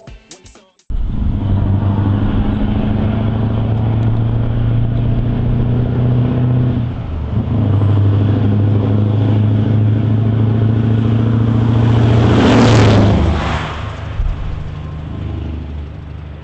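Scania R500's V8 diesel engine running steadily with a deep, even note that dips briefly about seven seconds in. Near the end a loud hissing rush peaks, then the engine sound drops lower.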